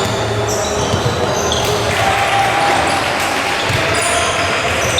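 Basketball game sounds in a large hall: a ball being dribbled and sneakers squeaking on the court over steady crowd noise.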